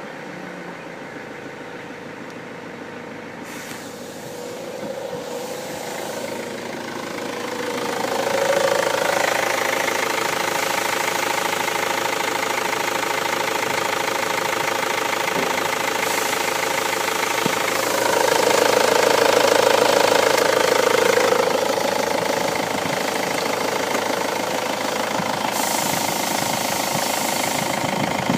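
Ford Transit 2.0 Di four-cylinder diesel engine running with diesel clatter. It idles, picks up speed between about 5 and 8 seconds in, is revved higher from about 18 to 21 seconds, then settles back.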